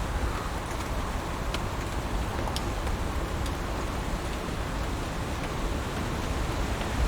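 Heavy rain falling steadily, a continuous even hiss with a few single drops ticking now and then.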